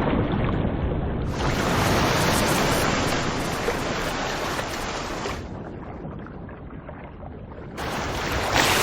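Rough sea water washing and surging. The noise swells up about a second and a half in, dies down after the middle, and swells again near the end.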